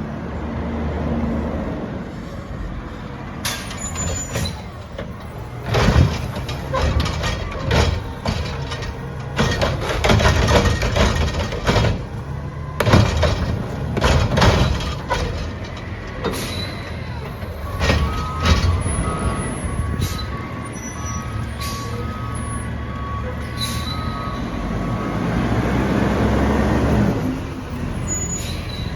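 Recycling garbage truck's engine running, with a run of loud clattering crashes as recyclables are tipped into the truck. A little past the middle, an electronic beeper sounds in even repeated pulses for several seconds. Near the end, a rising noise swells up.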